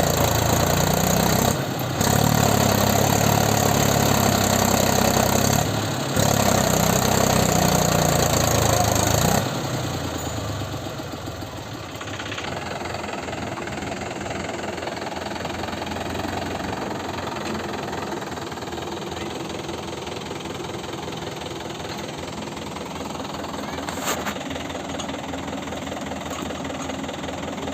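Tractor diesel engine running hard at high revs, its pitch wavering, with two brief dips. About nine seconds in it drops back to a steady, quieter idle.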